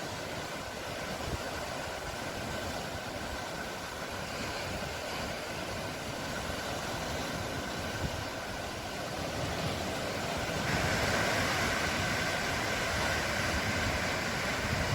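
Sea waves washing ashore in a steady rush of surf, swelling louder about eleven seconds in.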